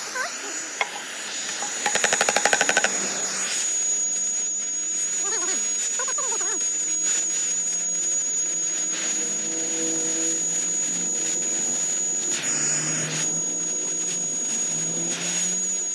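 An engine starts with a quick rapid run of firing pulses about two seconds in, then runs steadily through its exhaust, with a constant high whine over the drone.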